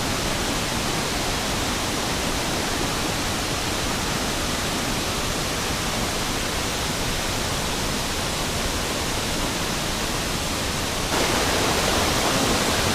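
Waterfall: the steady, dense noise of falling water, which suddenly gets louder about eleven seconds in.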